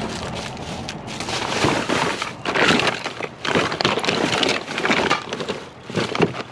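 Hands rummaging through a pile of discarded household items, with irregular rustling, crinkling and crunching as things are pulled about and shifted.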